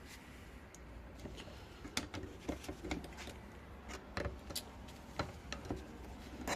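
Scattered light clicks and taps of metal hand tools against an ATV brake caliper as it is handled and pried at, a few at a time with short gaps.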